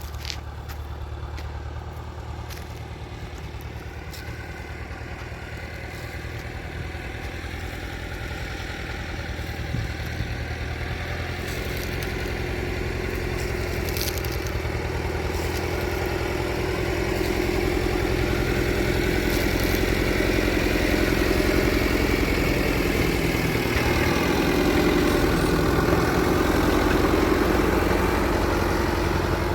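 A motor vehicle engine running steadily and growing gradually louder, as if drawing closer.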